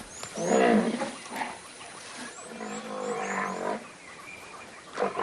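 Two long, pitched calls from a large animal, the second longer, with small birds chirping high above.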